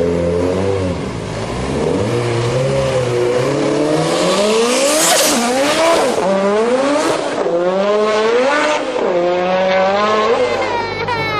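Turbocharged Honda del Sol engine revving hard, its pitch rising and falling again and again as the car spins its tyres, with a burst of tyre squeal about halfway through.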